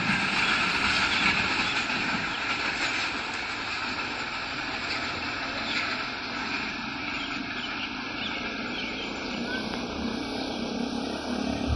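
Passenger train running past on the track, a steady rumble and rattle that slowly fades.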